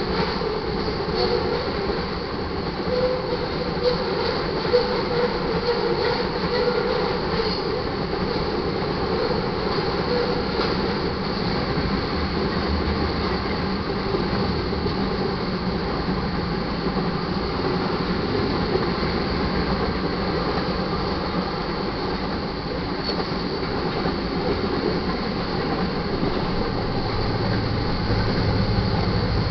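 Loaded crude oil tank cars of a freight train rolling steadily past, a continuous rumble of steel wheels on rail with occasional clicks over joints. Near the end a deeper engine rumble swells as the rear distributed-power locomotives come up.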